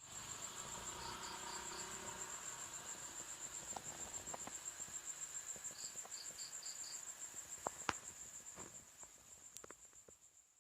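Crickets trilling steadily on one high pitch, with two short runs of about four quicker chirps and a few scattered clicks. The sound fades away near the end.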